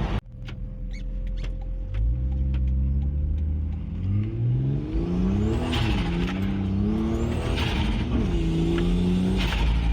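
Ford XR6 Turbo's turbocharged 4.0-litre inline-six running in an 80 series Land Cruiser. It idles and is then revved three times, the pitch climbing and dropping back each time, with a short hiss as each rev peaks.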